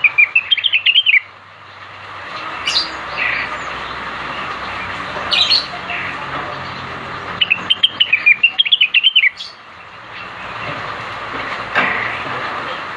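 Cucak wilis bird singing. There are two quick runs of high chirps, each about a second or two long, one at the start and one past the middle. Short single calls fall in between, over a steady hiss.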